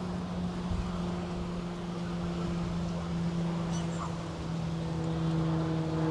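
A steady engine or motor hum whose pitch drifts slowly lower, over outdoor background noise, with one brief high chirp a little after halfway.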